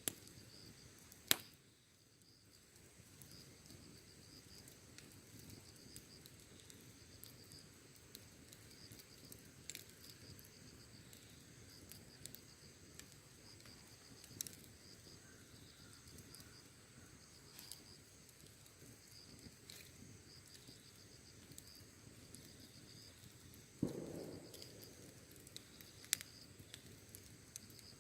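Wood fire burning quietly, with scattered sharp crackles and pops and a brief low rush of noise near the end, over a steady pulsing chirp of insects.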